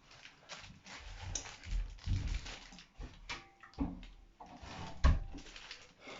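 Irregular clicks, knocks and rustling, with a few louder thumps about two, four and five seconds in.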